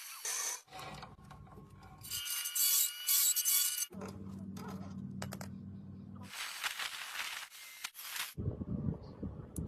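Workshop tool sounds in short clips cut one after another: stretches of high rasping hiss alternate with the low hum of a small motor, each starting and stopping abruptly.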